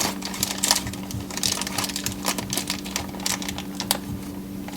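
Green chillies frying in hot oil in a cooker, with irregular crackling and spitting pops. A steady low hum runs underneath.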